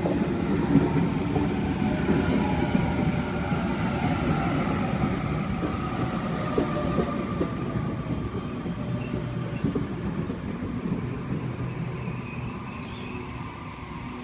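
Sydney Trains Waratah electric multiple unit running through the station. Its traction motors whine in several tones that slowly fall in pitch as it slows, over a rumble of wheels with a few clicks on the rails, and the sound fades toward the end.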